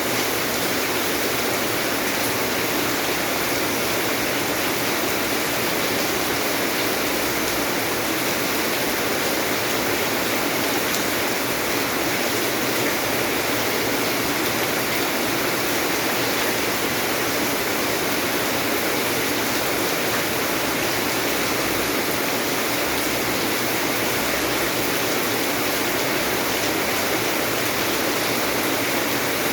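Steady, unchanging rushing of water, a dense even hiss with no separate drops, splashes or pauses, laid down as rain ambience.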